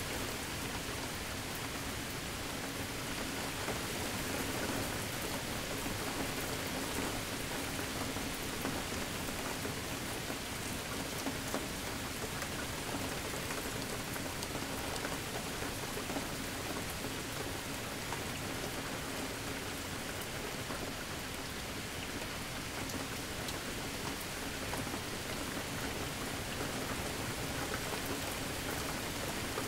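Steady rain falling, with many fine drop hits and an even, unchanging level.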